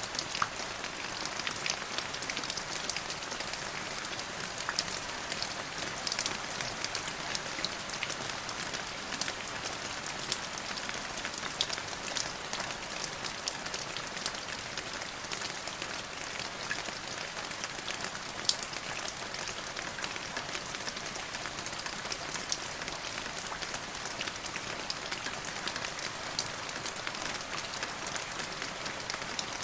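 Steady rain falling on a surface, a continuous hiss with many individual drops ticking sharply throughout.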